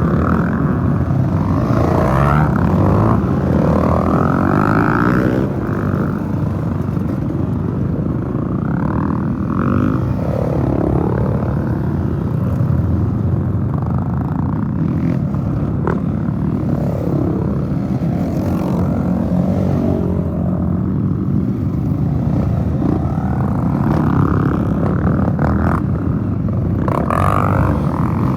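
Several trail motorcycle engines revving and passing one after another, their pitches overlapping and rising and falling continuously.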